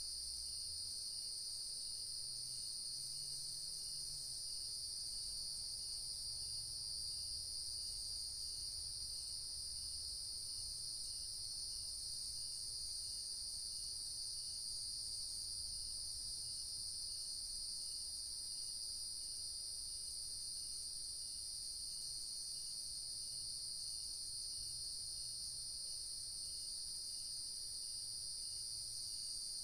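A steady, high chorus of crickets and other night insects trilling without a break, with a faint, evenly repeated chirp a little more than once a second beneath it.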